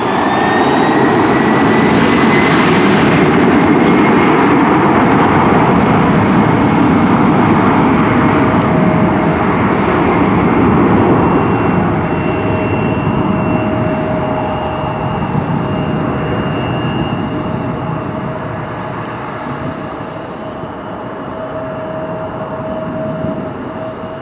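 Jet airliner's engines passing close by. A loud roar with a steady whine and a rising whine near the start, loudest for the first ten seconds or so, then slowly fading.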